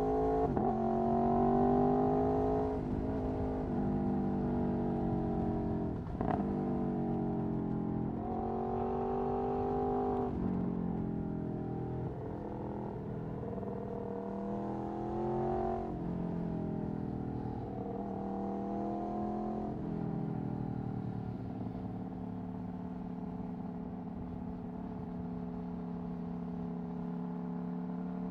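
Aprilia Tuono V4 1100's V4 engine through an Akrapovic Racing exhaust, accelerating in a series of rising pulls with drops in pitch between them as it shifts, with a brief sharp crack about six seconds in. In the last third it settles into a steady, even drone at constant throttle.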